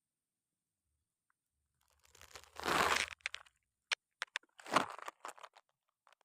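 Rice field eels making wet crackling and clicking sounds: after about two seconds of silence, two short crackling bursts, each followed by a quick run of sharp clicks.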